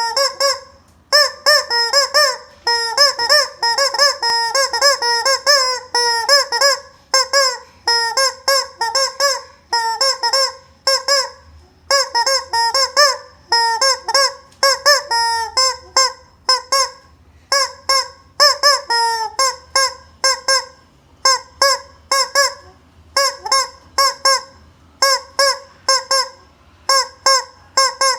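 A chicken squawking over and over: short, loud calls, several a second, in runs broken by brief pauses.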